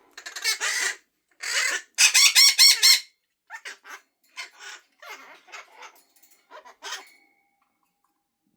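Hahn's macaw calling and chattering: a run of loud, wavering calls in the first three seconds, then softer short chatter that dies away about seven seconds in.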